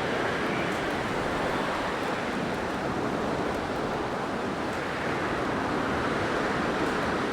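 Blizzard wind blowing as a steady rushing noise, with slow gentle swells and no gaps.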